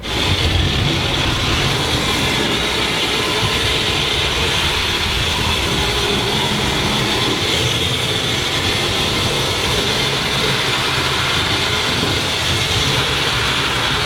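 Battery-powered toy train running steadily on its plastic track, a continuous small-motor and wheel whir that starts abruptly as it is switched on.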